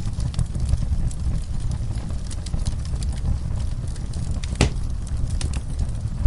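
Wood fire in a fireplace crackling, with scattered small pops and one louder snap a little past halfway, over a steady low rumble.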